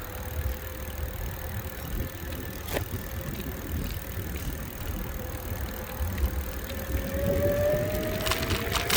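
Bicycle ride: wind rumbling on the microphone over tyre and road noise, with a sharp click about three seconds in and a few rattling clicks near the end. A faint whine rises in pitch and grows louder over the last couple of seconds.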